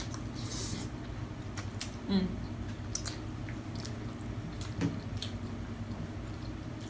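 Close-up eating sounds of Filipino spaghetti being chewed, with scattered light clicks and a short wet hiss about half a second in.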